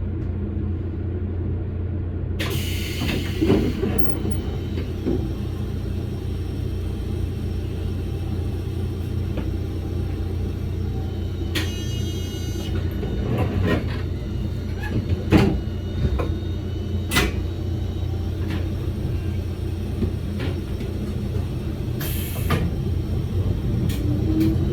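Electric commuter train running on the track: a steady low rumble with occasional sharp clacks and rattles from the wheels and car body. Near the end a whine rises in pitch.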